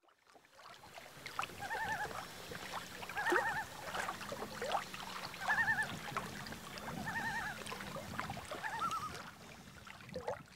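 Outdoor evening ambience with a bird's wavering call repeated about five times over a low steady background, fading in at the start and out at the end.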